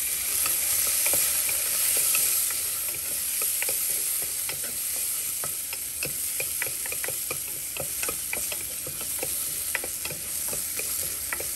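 Diced ginger and garlic sizzling in hot oil in a saucepan, stirred with a wooden spoon: a steady hiss with many small clicks and ticks as the spoon moves the pieces against the pan.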